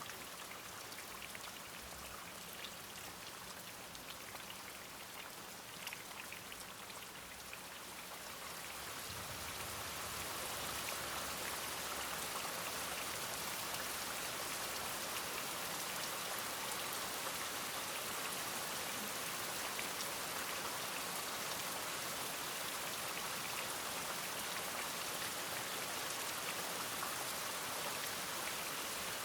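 Steady rain falling on surfaces, swelling louder about a third of the way in and then holding steady.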